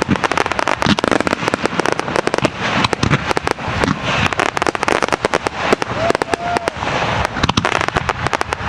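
Aerial fireworks display: a dense, continuous barrage of bangs and crackles, many shells and effects bursting every second.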